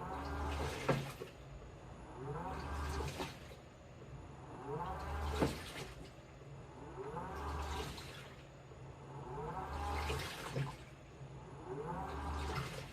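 Washing machine running its wash cycle: the motor hums and whines up in short turns of the drum about every two and a half seconds. Water sloshes and there are sharp knocks each turn.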